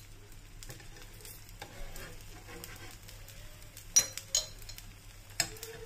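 Ghee sizzling under a thin batter crepe frying on a flat iron tawa, with a few sharp taps against the pan, the loudest about four seconds in.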